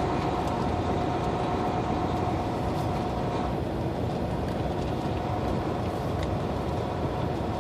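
Semi truck driving slowly, heard from inside the cab: steady engine and road noise. A faint steady tone stops about three and a half seconds in.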